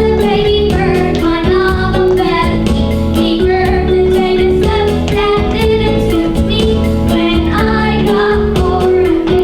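Children singing a song over a musical accompaniment with a steady beat.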